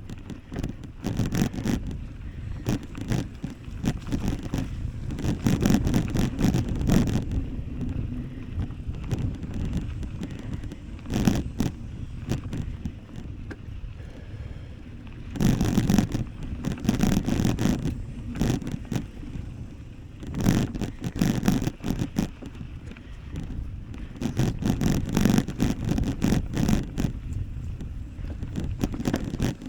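Wind rumbling across the microphone of a bike-mounted camera while riding, with frequent rattles and knocks as the bike jolts over rough ground. The rumble swells and eases in gusts.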